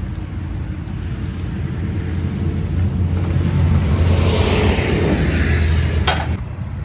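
A passing vehicle's low rumble, building to a peak about four seconds in and then easing off, with one sharp click near the end.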